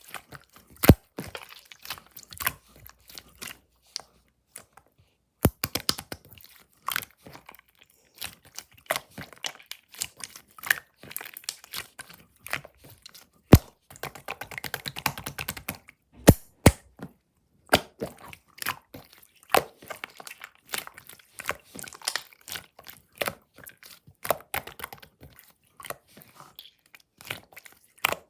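Slime being squished and pressed by hand, giving irregular sharp pops and clicks as air pockets burst, with a denser run of crackling about halfway through.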